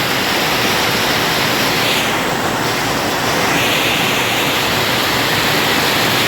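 Rain pouring down steadily: a loud, dense, even hiss.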